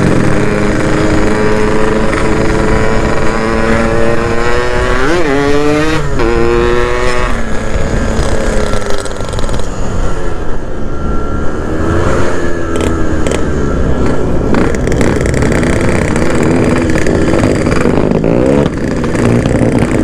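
Yamaha RX-King two-stroke single-cylinder motorcycle engine running under way. It revs up over the first few seconds, drops and climbs again twice through gear changes, then holds a cruising note that rises and falls with the throttle.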